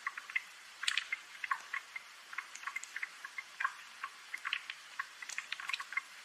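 Scattered raindrops dripping and ticking, several irregular drops a second, each a short sharp tick or plip.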